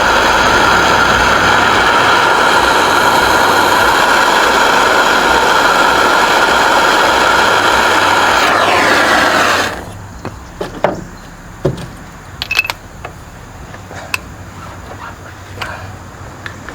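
A heating tool runs with a loud steady rushing hiss and whistling tones as it heats a rust-seized spark plug, then shuts off abruptly about ten seconds in. A few light metallic clicks and taps follow.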